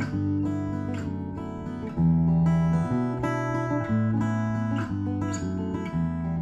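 Solo acoustic guitar playing a piece that mixes ringing natural harmonics with regularly played notes. Notes sustain and overlap, with a new note or chord about once a second.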